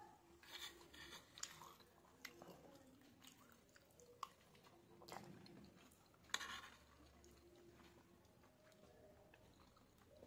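Faint close-up chewing of soft macaroni pasta, with clinks and scrapes of a metal spoon against the plate; the loudest is a sharp clink a little past six seconds in.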